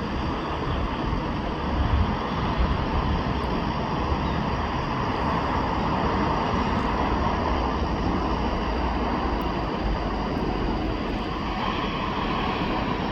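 Jet airliner engine noise at an airport: a steady rushing sound that swells slightly in the middle.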